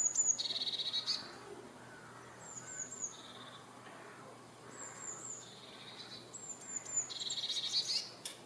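Songbirds singing: short high phrases of three or four quick falling notes recur every couple of seconds, with a fast trill just after the start and again near the end.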